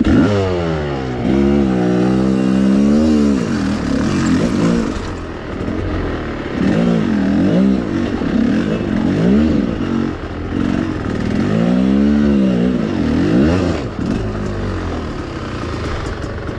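Enduro motorcycle engine revving hard, its pitch climbing right at the start, holding, then rising and falling again and again in repeated surges of throttle.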